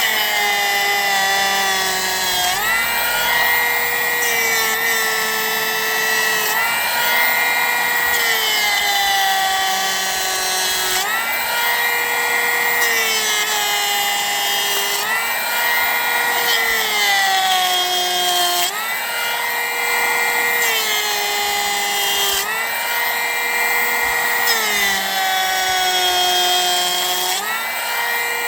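Makita XGT 40-volt cordless hand planer running continuously with a high whine while planing pressure-treated 4x4, its pitch dropping and recovering every few seconds as each pass loads and frees the cutter.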